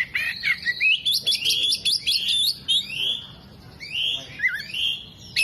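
Oriental magpie-robin (kacer) singing a continuous, varied song of quick chirps and rising whistled notes, with mimicked calls of other birds worked in.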